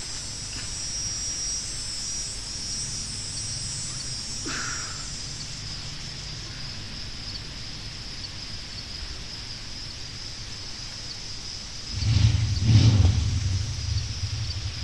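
Steady high-pitched insect chorus, crickets or cicadas, with a faint short chirp about four seconds in. About twelve seconds in, a loud low rumble starts and lasts to the end.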